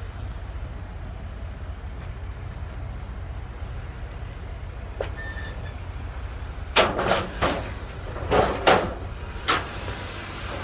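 Truck engine running steadily with a low rumble. About two-thirds of the way in, a quick series of six or so loud metallic clanks and bangs.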